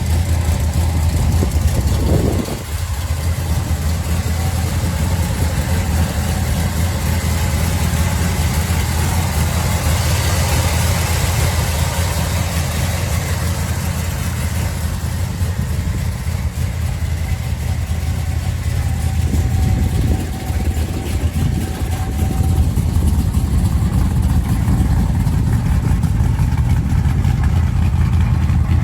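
Big-block engine of a Pro Street 1972 Pontiac GTO running at a steady idle, a deep continuous exhaust note that dips briefly about two seconds in and again around twenty seconds.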